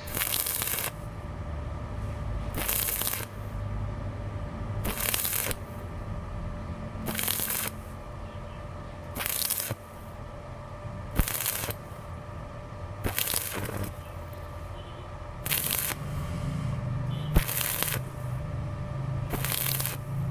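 Electric arc welding crackling in short bursts, about ten of them, each under a second and roughly two seconds apart, over a steady low electrical hum.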